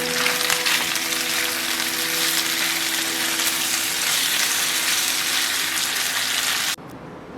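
Food sizzling as it fries in hot oil: a steady, even hiss that cuts off suddenly near the end. Soft background music with held notes plays underneath.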